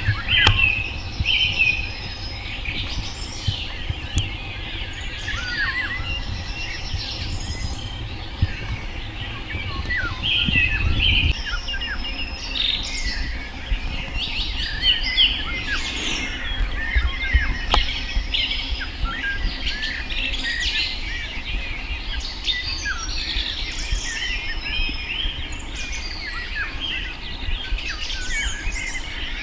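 Many small birds chirping and singing at once, short calls and trills overlapping continuously, over a low rumble.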